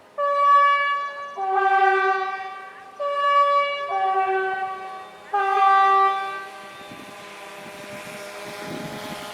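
A train horn sounding two notes, a higher then a lower one, blown in pairs three times, followed by the rising rumble of the approaching train.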